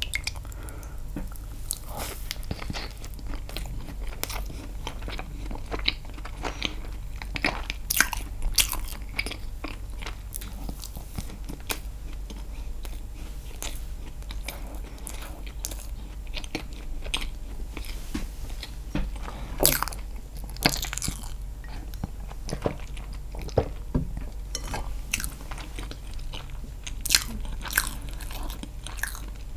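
Close-miked chewing and biting of castella sponge cake, with frequent sharp mouth clicks and smacks, over a steady low hum.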